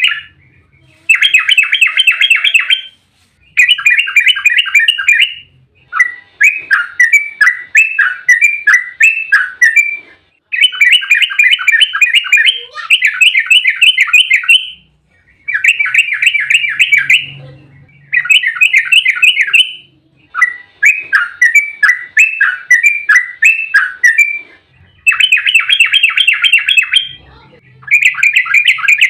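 Yellow-vented bulbul (trucukan) singing fast, bubbly, chattering phrases of rapid rolling notes, each phrase one to three seconds long, about a dozen in a row with short pauses between them.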